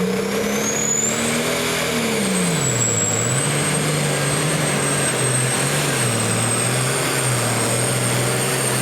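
Diesel engine of a pulling vehicle under load on the sled, its pitch rising at first, then dropping sharply about three seconds in and wavering up and down after that, with a high steady whistle above it.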